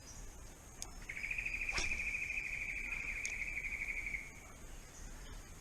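An insect's buzzing trill, starting about a second in and lasting about three seconds, over a steady high hiss, with a few faint clicks.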